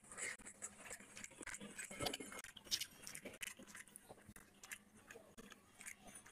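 Close-up wet chewing and mouth smacks of someone eating soaked panta bhat rice with fish by hand, in soft irregular clicks. Later, fingers squelch through the watery rice, mixing the next handful.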